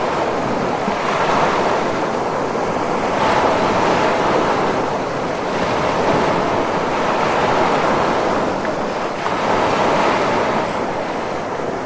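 Ocean waves breaking and washing in a continuous surf hiss that swells and eases every few seconds.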